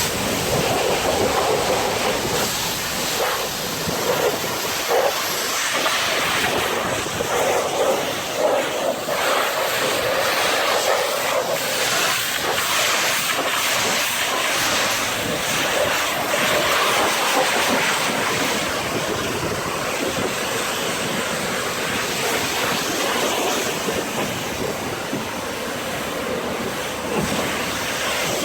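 Pressure washer jet spraying water against a truck, rinsing off foam soap: a steady rushing hiss that swells and dips unevenly.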